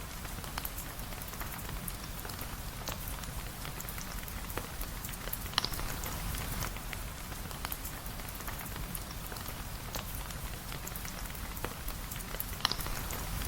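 Steady rain with a low rumble underneath and many small scattered drip ticks. Two louder sharp clicks stand out, one about halfway through and one near the end.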